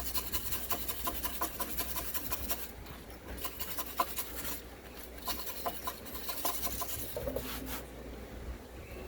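Hand tool scraping over a fresh weld on a steel suspension bracket to clean it up, in quick repeated strokes with a short pause about three seconds in.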